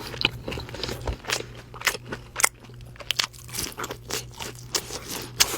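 A person chewing Wingstop seasoned fries close to the microphone: irregular crunches and mouth sounds, with a faint steady hum underneath.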